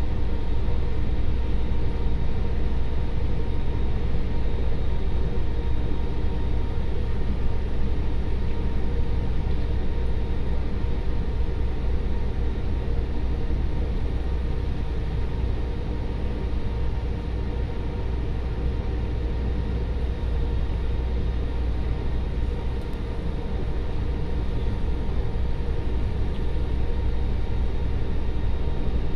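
Steady low drone of ship engines and machinery, unchanging throughout, with a faint steady hum above the rumble.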